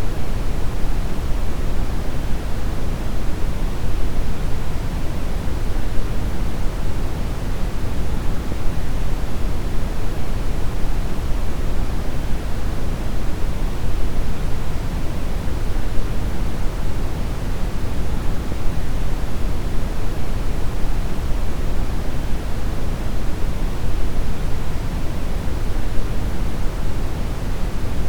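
Steady synthetic brown noise: an even, deep rushing hiss weighted toward the low end, with no changes or events.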